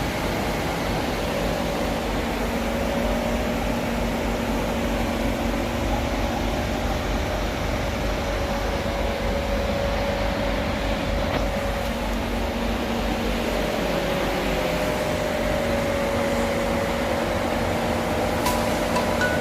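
Steady mechanical hum of a city bus standing with its engine running, an even drone with a couple of held tones.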